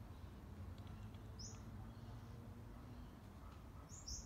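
Quiet low background rumble with a few short, high bird chirps: one about a second and a half in and two in quick succession near the end.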